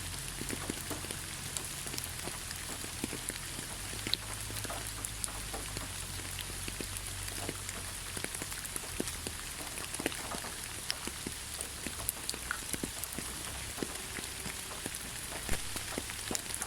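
Steady rain with many separate drops ticking and pattering on a hard surface close by, over a constant hiss.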